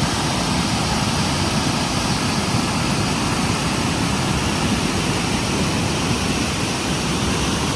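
River water rushing fast: a steady, unbroken roar of flowing water.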